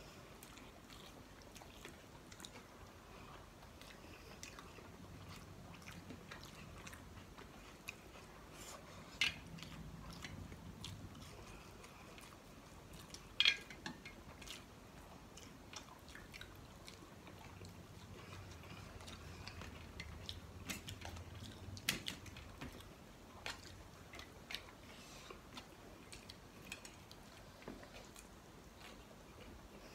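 Close-up eating sounds of two people chewing rice and curry eaten by hand, with scattered sharp clicks and crunches, the loudest about 13 seconds in.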